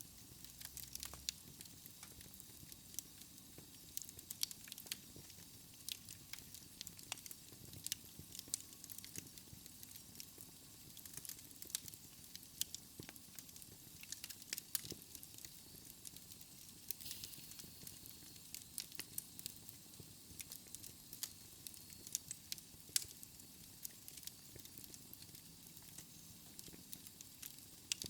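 Fire crackling in a fireplace: irregular sharp pops and snaps over a soft steady hiss.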